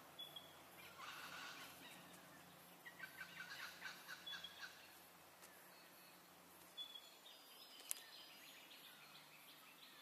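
Faint bird calls: a few short high whistles and bursts of rapid chattering, with one sharp click about eight seconds in.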